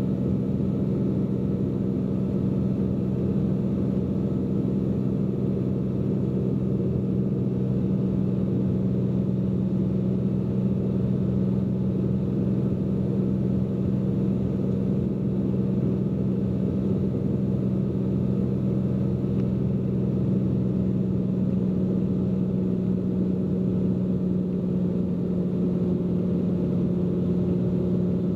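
Steady drone of a Cessna P210N's turbocharged six-cylinder piston engine and propeller on final approach, a constant low hum with no change in power.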